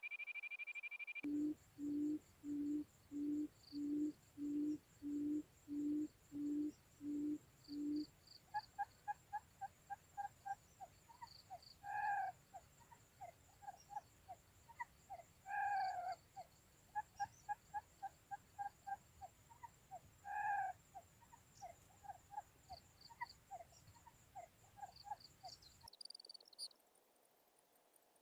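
Birds calling. A steady high whine stops about a second in, and then comes a series of about eleven low, evenly spaced hoots. After that there is a long run of quick chirping notes with a few louder calls among them, over a thin high insect-like trill.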